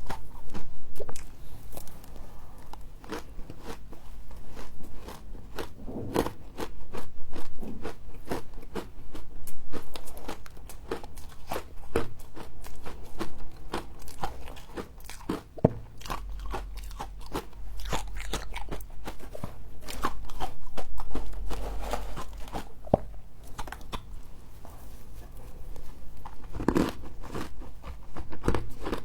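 Close-miked biting and chewing of fluffy humidifier frost: a dense, continuous run of crisp crunches and crackles, swelling louder in several bouts. A low rumble sits underneath for a few seconds past the middle.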